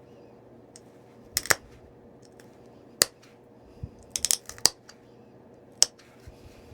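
Flintknapping: stone flakes snapping off the edge of a stone point as its broken tip is reworked. The sound is a string of sharp, irregular clicks, with a quick cluster of them about four seconds in.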